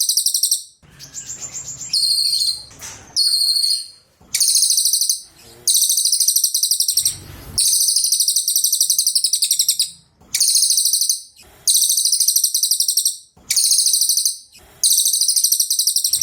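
A cililin, a small songbird, singing repeated high, rapid trilled phrases, each about one to two seconds long with short pauses between them. Between about one and four seconds in, the phrases change to shorter, choppier chattering notes.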